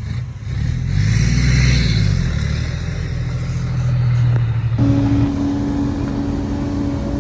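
Heavy diesel engine of earthmoving machinery revving up under load about half a second in, then running steadily; a steady whine joins it about five seconds in.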